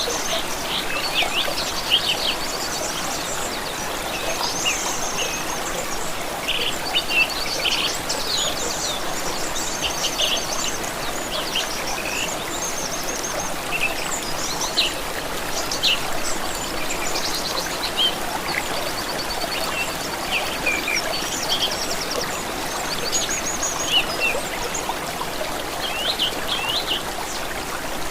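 Running water from a stream under the steady chatter of several songbirds, with high chirps, trills and quick repeated notes throughout.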